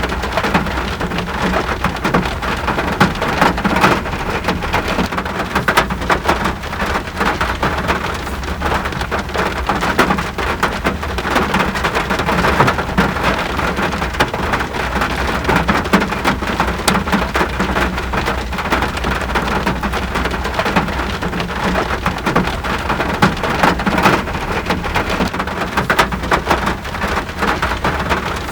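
Steady rain falling, with many close drop impacts on surfaces and a low steady rumble underneath.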